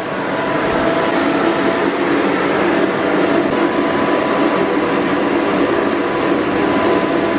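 Electric air blower of a Little Tikes inflatable bounce house running steadily, pumping air to inflate it. It comes up to speed over about the first second, then holds a loud, even rushing whir; it is slightly noisy.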